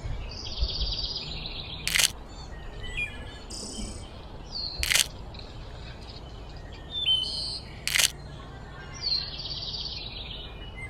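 Songbirds calling and chirping in a series of short, repeated calls. Four sharp clicks come about three seconds apart.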